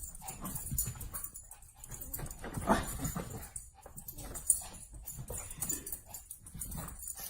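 A dog whimpering and whining in a series of short cries, the clearest one about two and a half seconds in.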